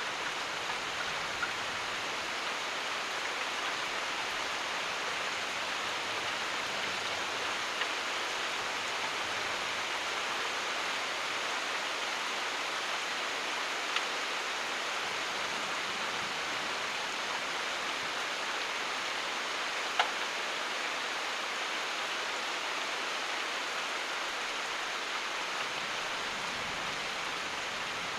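Steady rain falling, an even hiss, with a few sharp drop ticks standing out, the loudest about twenty seconds in.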